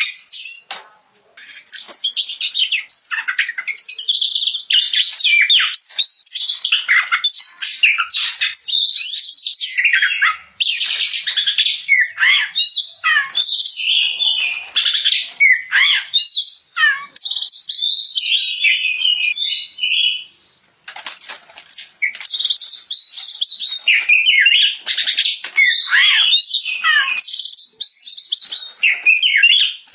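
Oriental magpie-robin (kacer) in full, continuous song: a rapid, varied run of loud whistles, chirps and sliding notes, with a brief pause about twenty seconds in.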